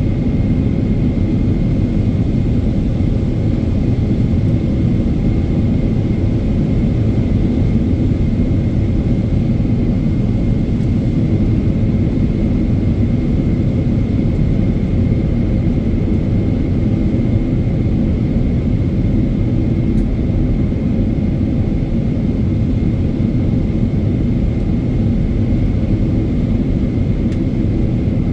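Steady cabin roar of a Boeing 777-300ER in flight, heard from inside the cabin: the GE90 engines and airflow make a deep, even rumble, with a faint steady high whine over it.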